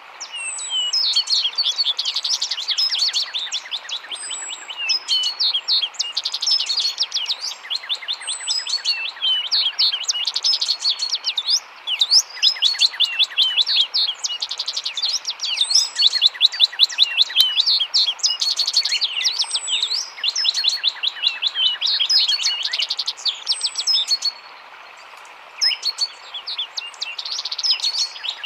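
A dense chorus of many small birds chirping and twittering at once, short rapid calls overlapping continuously, over a steady hiss of running water. The chirping thins out briefly near the end.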